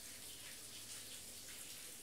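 Faint, steady hiss of rain.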